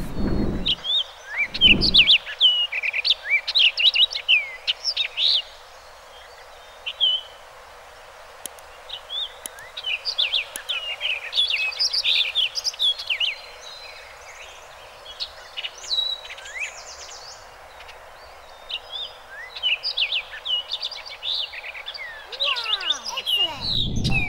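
Orchard oriole singing: bursts of a few seconds of rapid, jumbled chirps and slurred whistled notes, with short pauses between, over a steady background hiss. Two low thuds come in the first two seconds.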